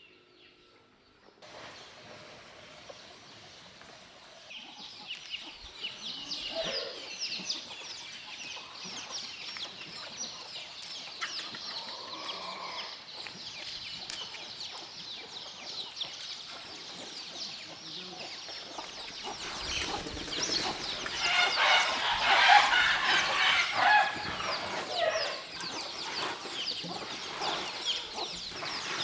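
A flock of domestic fowl clucking and calling, with many short overlapping calls that grow louder and busier about two-thirds of the way through.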